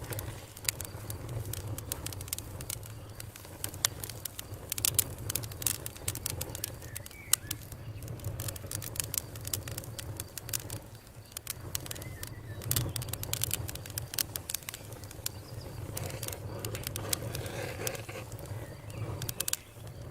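Campfire crackling: a steady low rush of flames under frequent sharp pops and snaps, a few of them louder.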